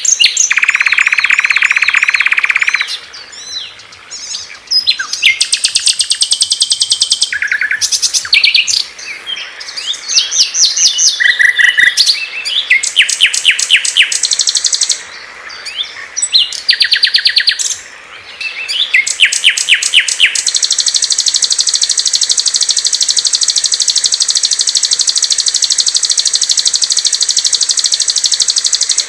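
Recorded songs of several small songbirds, strung together one after another as a masteran training track. Loud chirps and fast trills change abruptly from one bird to the next, and a long unbroken high trill begins about two-thirds of the way in.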